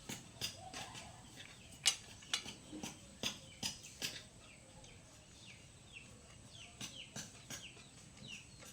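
Faint, repeated short bird chirps, each dropping in pitch, with scattered light clicks and knocks among them.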